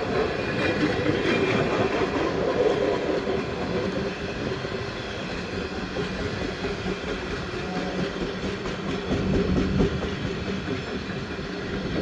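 Indian Pacific passenger train rolling past at speed, its carriage wheels clattering over the rails with a steady rumble and a low hum through the middle.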